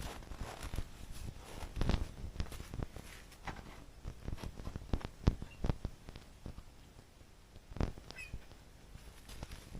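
A pet animal making brief calls amid scattered light knocks and clicks, the loudest knocks about two, five and eight seconds in.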